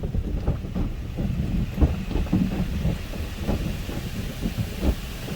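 Automatic tunnel car wash equipment heard from inside the car: a steady low rumble with irregular knocks and a faint hiss.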